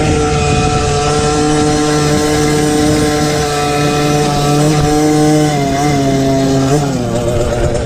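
Small mini motocross bike engine of an MXF 50 Pro Racing running at steady high revs. About five and a half seconds in, the revs drop and waver lower as the throttle comes off.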